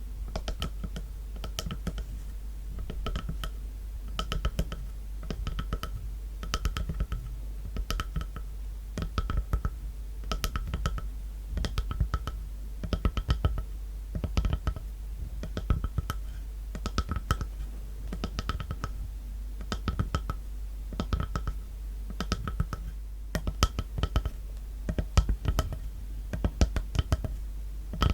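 Tapping on a wooden log: short wooden knocks in quick, irregular clusters, each with a brief ring.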